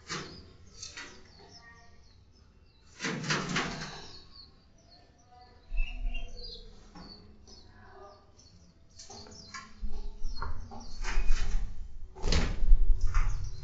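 Caged songbirds in an aviary chirping and calling in many short, high notes, with a few louder rustling bursts at about three seconds in and near the end. A low rumble joins from about ten seconds in.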